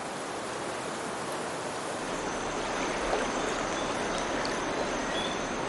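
Steady rush of flowing river water. A faint, thin high tone joins it about two seconds in.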